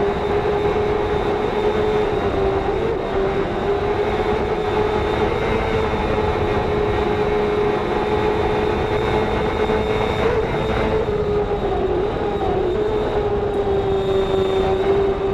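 Onboard racing motorcycle engine running flat out at high, nearly constant revs, with a steady high drone that dips slightly in pitch now and then, over wind rush.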